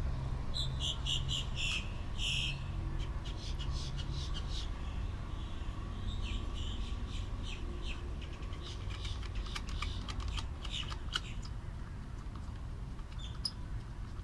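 Birds calling in runs of short, high, repeated chirps and squawks, first near the start and again in the middle, over steady low background noise.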